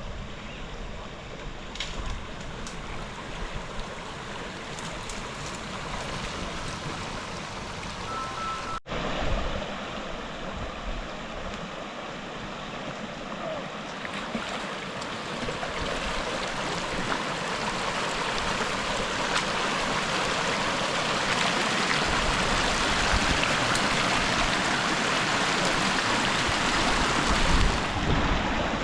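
Steady rush of flowing water, broken by a sudden cut about nine seconds in and then slowly growing louder.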